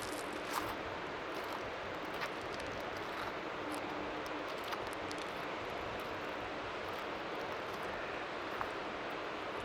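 Strong sea wind making a steady hiss of white noise, with faint waves lapping at the shore underneath and a few faint ticks.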